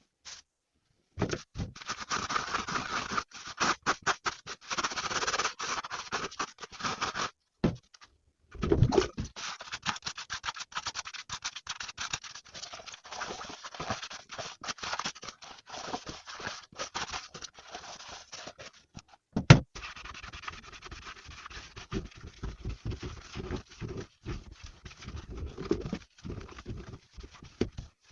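Scratchy scrubbing and rubbing in quick repeated strokes, broken by short silent gaps, with one sharp knock about 19 seconds in.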